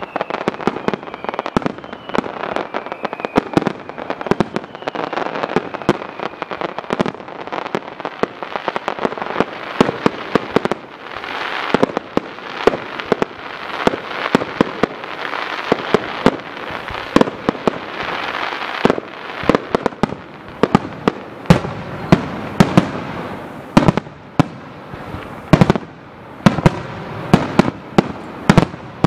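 Aerial fireworks display: shells bursting in rapid succession, many sharp bangs over a continuous rumbling haze, with the loudest bangs coming in the last third.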